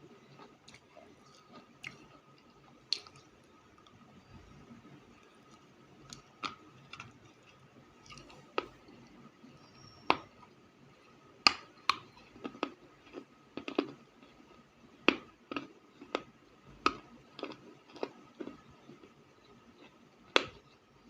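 A person biting and chewing crunchy clay close to the microphone: sharp cracks and crunches at irregular intervals, sparse at first and coming more often in the second half.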